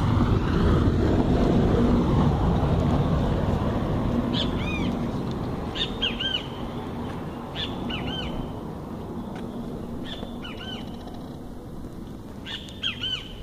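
A bird calling repeatedly from about four seconds in: short, arched chirping notes in twos and threes, a call every one and a half to two seconds. Beneath it, a steady low rumbling background noise, loudest at the start, eases off.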